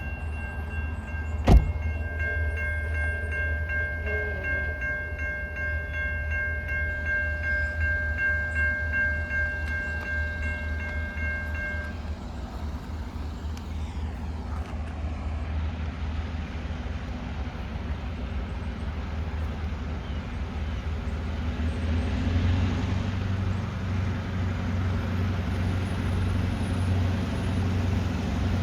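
Train rumbling past a railroad crossing, a steady low rumble throughout. For about the first twelve seconds a steady high chord of several tones sounds over it, then stops. There is one sharp crack about a second and a half in.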